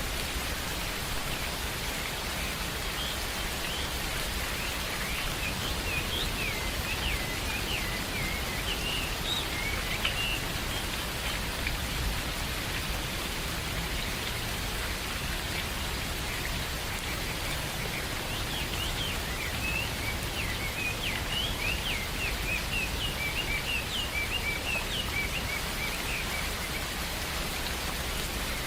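Steady rain falling, with birds chirping through it in two spells of quick high chirps, a few seconds in and again past the middle.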